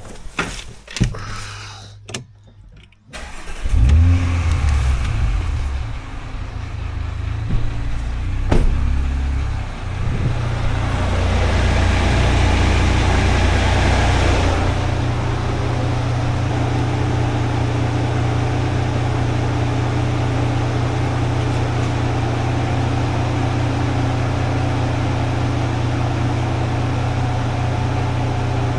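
A motor starts about four seconds in with a surge, then runs steadily with a low, even hum.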